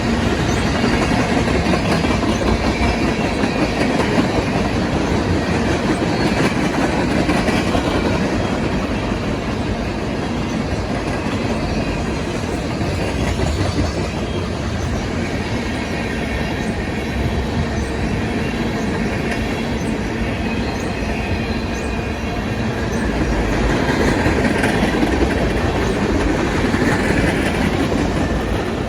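Freight train's cars rolling past in a steady rumble and clatter of wheels on the rails, swelling louder for a few seconds near the end.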